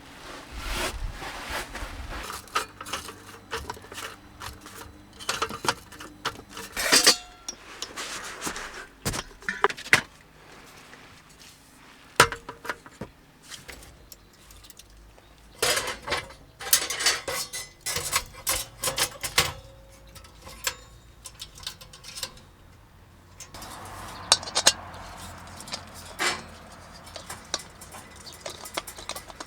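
Metal and hard objects clinking and clattering as they are handled, in several bursts with short pauses between.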